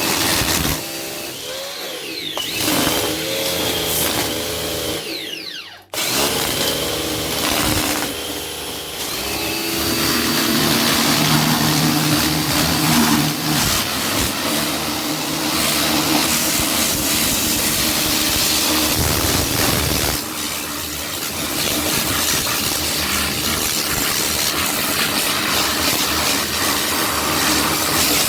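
Pressure washer running with its spray going, a steady motor whine and hiss. The motor winds down and cuts out briefly about six seconds in, then starts again.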